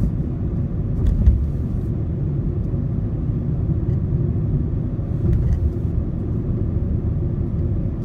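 Steady road and engine rumble heard inside the cabin of a 2013 Honda Civic driving at low neighbourhood speed. A brief thump about a second in stands out above the rumble.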